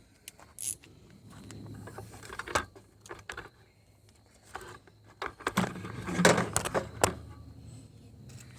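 Metal hand tools clicking and knocking as a 9/16 socket wrench is fitted and worked on a bolt, with scattered clicks and a louder flurry of clinks and knocks about six to seven seconds in.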